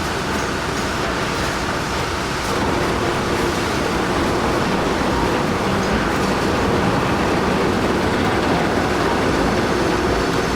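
Heavy machinery running: a steady, dense mechanical rumble that gets a little louder about two and a half seconds in.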